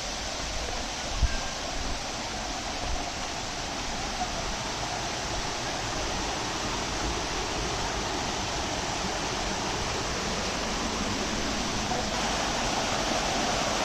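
Steady rushing of a waterfall, growing slowly louder, with a brief low thump about a second in.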